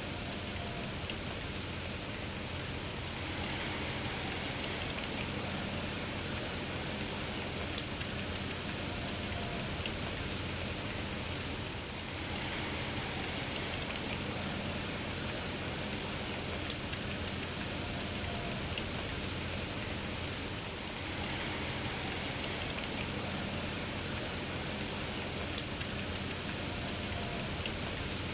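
Steady rain falling, with three sharp clicks, evenly spaced about nine seconds apart, standing out above the even hiss.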